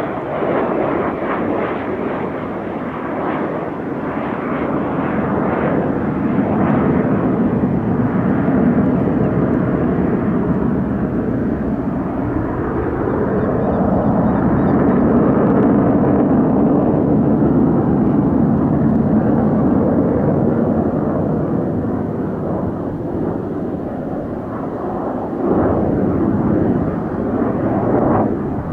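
Saab Draken jet fighter's engine noise as it flies its display: a continuous rushing rumble that swells to its loudest about halfway through and surges again near the end, with strange echoing sounds bouncing back off chalk cliffs.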